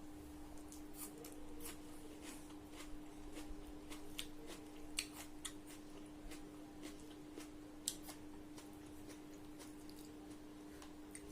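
Close-miked eating sounds of fried fish and squid: irregular sharp crisp clicks and smacks from chewing, two louder crunches about five and eight seconds in, over a steady low hum.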